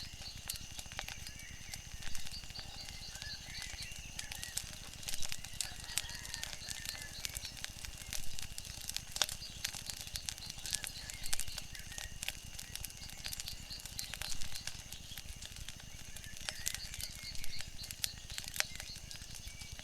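Wood fire crackling, with frequent sharp pops and snaps over a steady low rumble, with faint bird calls in the background.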